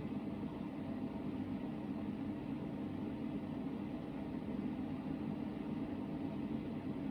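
Hoover VHD 9163 ZI washing machine in its first spin, the drum spinning with a steady hum.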